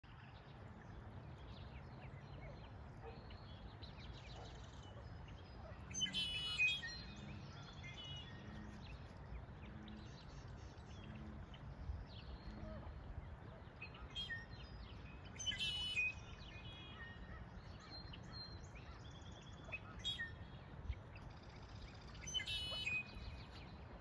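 Birds chirping over a steady low outdoor background rumble. Three louder, quick chirping phrases come about six, fifteen and twenty-three seconds in, with fainter chirps between them.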